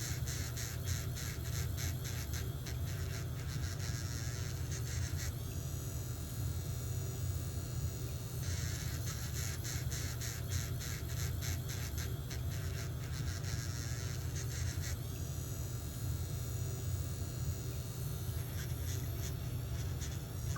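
Electric nail drill running with a steady low hum while its bit grinds down a fungus-thickened toenail in fast rasping passes, lifting off twice for about three seconds while the motor keeps running.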